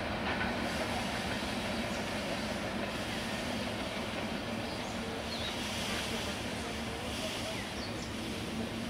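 Steady rumble of an intercity passenger train's coaches running away along the track, fading a little, with a faint steady hum underneath.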